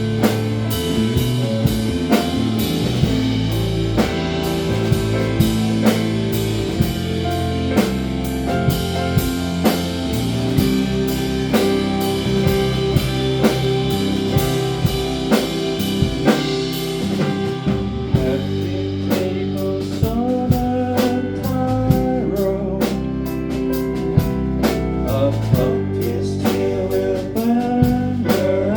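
Live band playing a bluesy rock song: a drum kit keeps a steady beat under electric guitar. About two-thirds of the way through, a bending, wavering melody line comes in on top.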